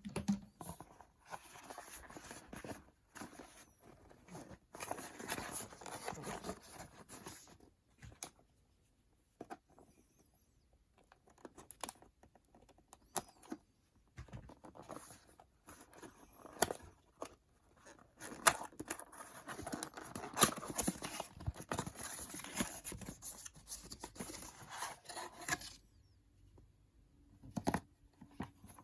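Irregular rustling, scraping and clicking of objects being handled, in uneven bursts with short pauses between them.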